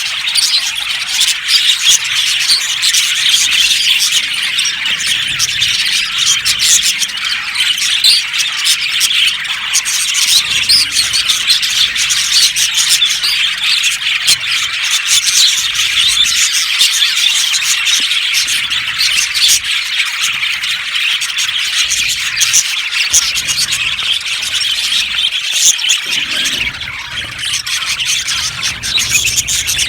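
A flock of budgerigars chattering and chirping together in an aviary colony, a dense, continuous overlapping warble of many birds at once.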